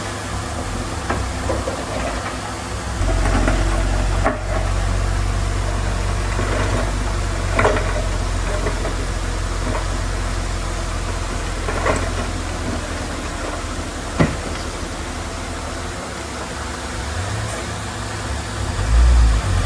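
Komatsu D31P bulldozer's diesel engine running steadily under work, with a few sharp knocks about eight, twelve and fourteen seconds in.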